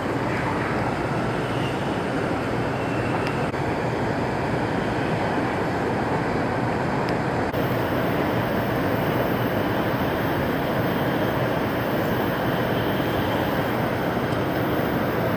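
Steady rumble and hiss inside the passenger car of a running Taiwan High Speed Rail train, with the high hiss shifting slightly about halfway through.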